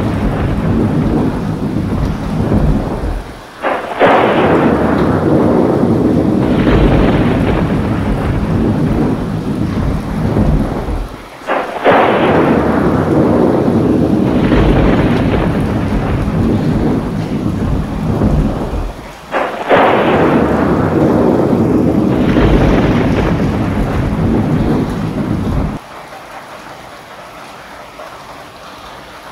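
Thunderstorm: rain falling with thunder. Three sharp claps come about eight seconds apart, each rolling away over several seconds. A few seconds before the end it drops suddenly to softer, steady rain.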